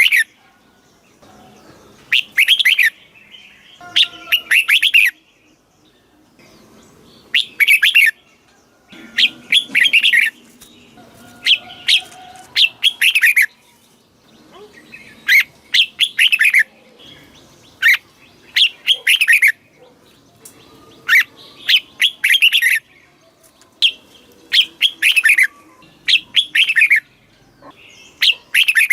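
Red-whiskered bulbul singing: short, loud phrases of quick falling whistled notes, often given in pairs, repeated every two to three seconds.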